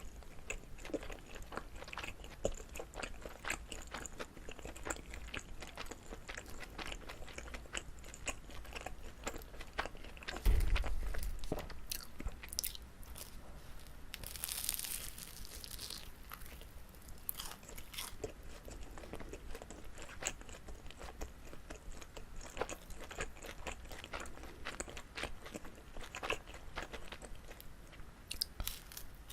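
Close-miked chewing of a chewy, sticky rice cake filled with gondre namul: steady wet mouth sounds with many small clicks. About a third of the way in there is one loud low thump, and around the middle a short hissy rustle.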